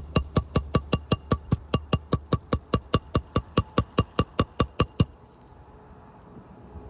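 Hammer tapping a roofing nail into a shingle: rapid, even metallic strikes with a ring, about five a second, stopping about five seconds in.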